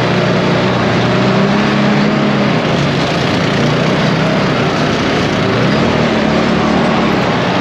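ATV engine running under way. Its pitch drops about two and a half seconds in, then climbs back up near six seconds.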